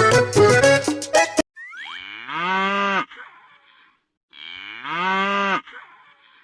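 Children's accordion music stops about a second and a half in, then a cow moos twice, two long calls falling in pitch toward the end.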